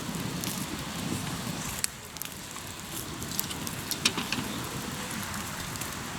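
Wood fire of hardwood logs crackling, with scattered sharp pops, the loudest about two seconds in and again about four seconds in, over a steady low rumble.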